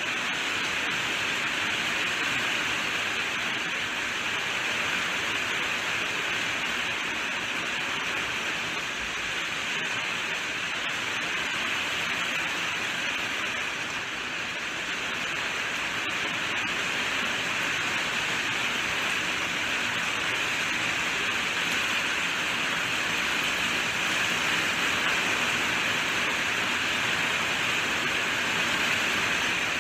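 Steady rainfall: a continuous, even hiss of rain with no distinct drops or thunder.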